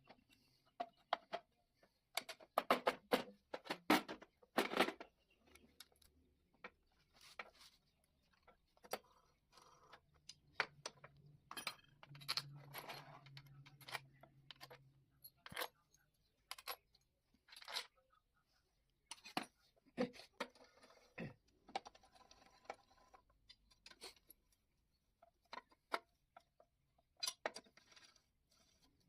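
Irregular metallic clicks and clinks of tools and parts being handled while a Honda CD 100 motorcycle engine is assembled, with a cluster of louder knocks a few seconds in.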